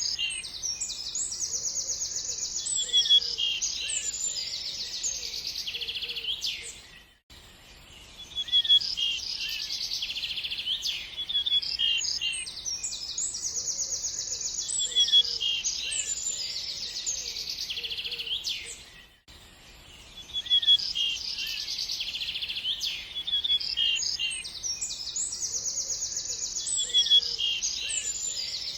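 Small songbirds chirping and trilling densely and high-pitched. The same stretch of birdsong repeats about every twelve seconds, as a loop, each time after a brief drop in level.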